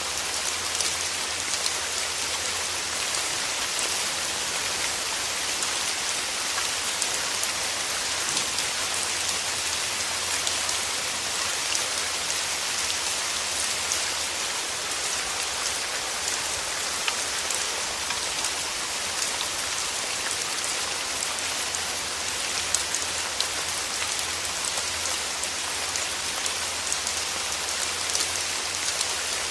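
Steady rain falling, an even hiss dotted with many small drop taps.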